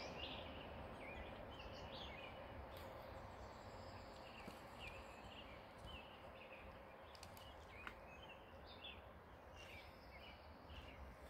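Faint outdoor ambience with a bird giving short, high chirps over and over, over a steady low hiss.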